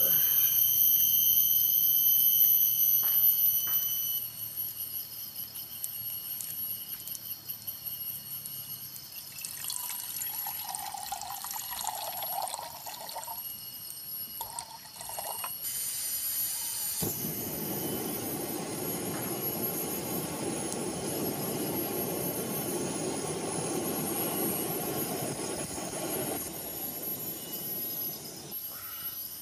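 Water being poured into a pot: a short pour with a shifting pitch about ten seconds in, then a longer steady pour from about seventeen to twenty-six seconds. Steady high-pitched insect buzzing runs underneath and is loudest in the first few seconds.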